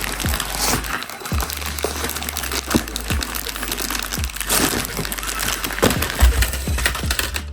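FMS Smasher V2 mini RC monster truck crawling over Oreo cookies, with irregular clattering, crunching and knocking as its tyres climb and grip the bumpy stack.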